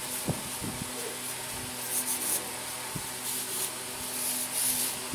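Repeated scrubbing strokes on a part, a few short scrapes with light knocks between them, over a steady low hum.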